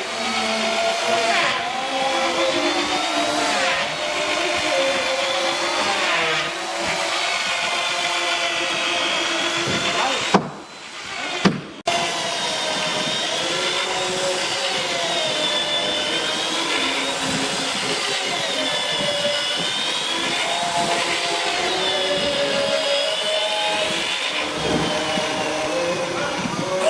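Power tool running hard while cutting boat timber, its pitch sagging and recovering every couple of seconds as it is pushed into the wood, with a short break about ten seconds in.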